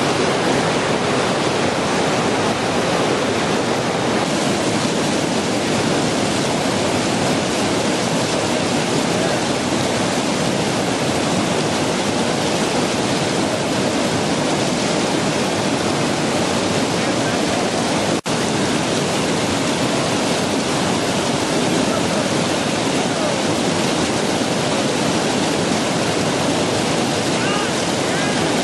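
Loud whitewater rapids rushing steadily. The sound breaks off for an instant about eighteen seconds in.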